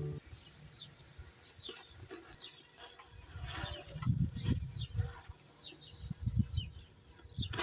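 Small birds chirping: many short, quick, falling chirps repeating. Irregular low dull thuds run under them, most in the second half.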